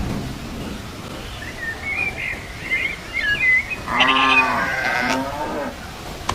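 Birds chirping, then a single long, wavering bleat of a farm animal about four seconds in.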